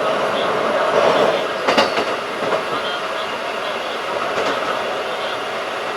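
Keikyu 1500 series field-chopper electric train running at speed: steady rolling noise, with a sharp knock a little under two seconds in and a fainter one just past four seconds, like wheels over rail joints.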